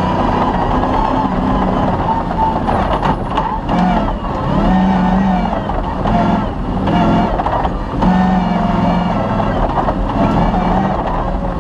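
Off-road rally car driven hard on a gravel special stage: the engine runs under load with revs rising and falling, over a whine that wavers with speed, and a few knocks from the rough ground.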